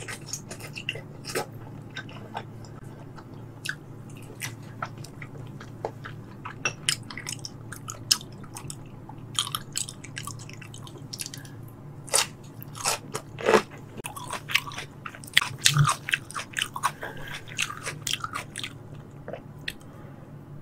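Close-miked chewing of raw tuna sashimi: wet mouth clicks and smacks that come thick and fast in the second half, over a low steady hum.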